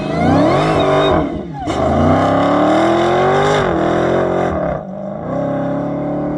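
A race vehicle's engine accelerating hard from the start of a standing-mile run, revving up through the gears. There are two clean upshifts, about a second and a half in and near five seconds, each dropping the pitch before it climbs again, with no hesitation.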